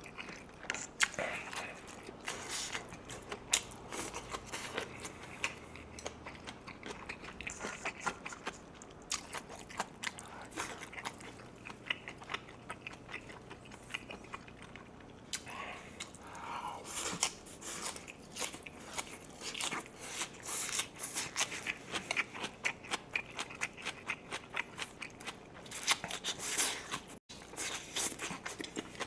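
Close-up chewing and crunching of fresh minari (Korean water dropwort) stalks with grilled pork belly: a steady run of short, crisp crunches and mouth clicks.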